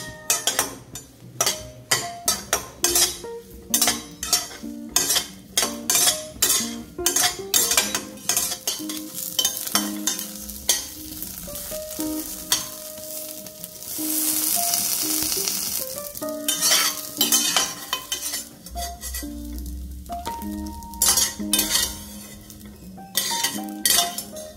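Soaked soya chunks sizzling in hot oil in a stainless steel pan, stirred with a metal slotted spatula that scrapes and clinks against the pan in quick repeated strokes. A little past the middle the strokes stop for a stretch of louder, steady sizzling.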